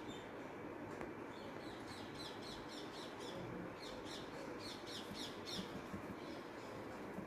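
Small birds chirping: many quick, high chirps in rapid runs, busiest in the middle of the stretch, over a steady low background hum.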